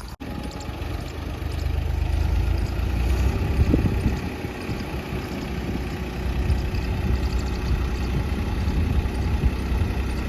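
Tractor diesel engine running steadily under load, with a brief drop in the audio just after the start.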